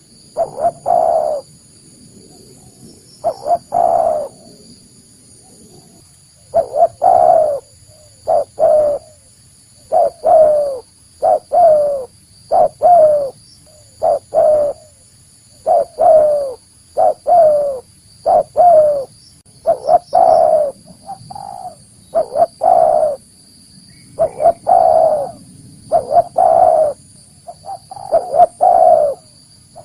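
Spotted dove (tekukur) cooing: phrases of two to four short coo notes that fall in pitch, repeated again and again with brief pauses between.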